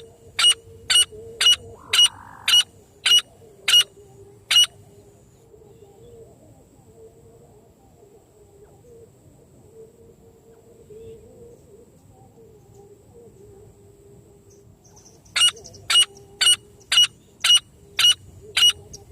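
Francolin (teetar) calls: a run of about nine sharp, loud notes at roughly two a second, a pause of some ten seconds, then a second run of about eight. A faint steady hum runs underneath.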